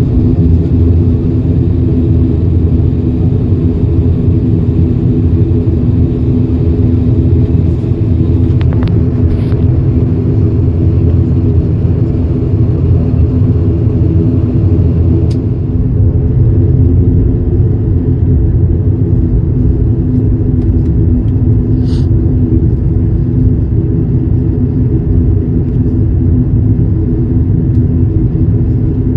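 Cabin drone of an ATR turboprop airliner in flight: a loud, steady, low rumble of the engines and propellers with a cluster of steady humming tones over it, and a few faint ticks.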